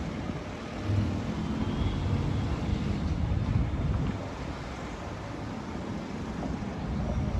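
City traffic rumbling steadily, with wind buffeting the microphone; the rumble swells for a few seconds from about a second in, as vehicles pass.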